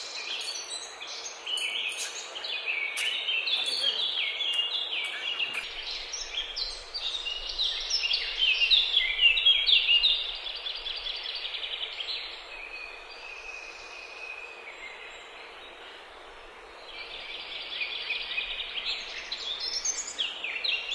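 Many birds chirping and calling together over a steady outdoor hiss. The calls thin out about halfway through and pick up again near the end.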